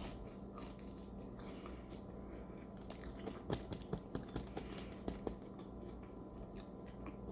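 Faint close-up eating sounds: someone chewing and biting food, with scattered small wet clicks and smacks, most of them between about three and five and a half seconds in.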